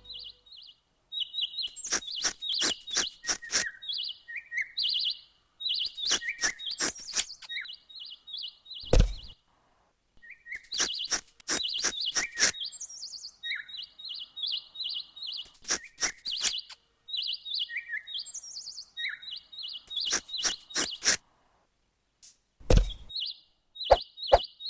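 Small birds chirping repeatedly, short high notes, mixed with groups of sharp clicks and two low thumps.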